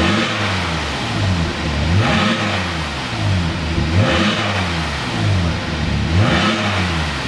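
Kia Carnival 3.3 GDI V6 revved through an aftermarket dual variable-valve exhaust, blipped about four times, each rev rising and then falling back to idle.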